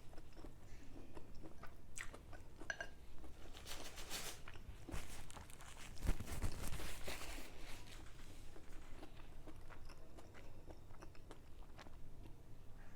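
Close-miked chewing and crunching of mohinga, Myanmar fish noodle soup, with repeated crisp bites that come thickest around the middle.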